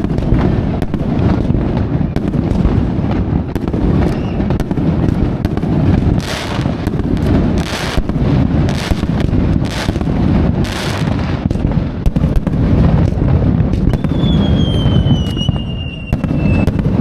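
Aerial fireworks going off in a dense, continuous barrage: heavy low booms and many sharp cracks, with several hissing bursts about midway. Near the end comes a whistle falling slowly in pitch.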